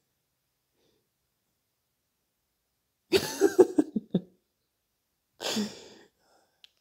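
A person coughing: a quick run of several coughs about three seconds in, then one shorter breathy cough or throat-clear a couple of seconds later.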